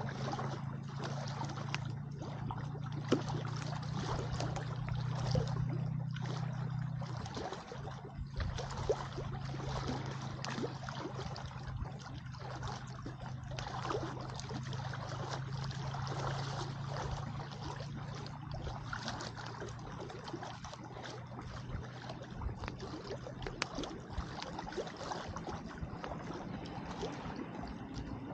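Wood campfire crackling and hissing with frequent small pops. Under it runs a steady low engine drone that drops a little about a quarter of the way in and fades out near the end.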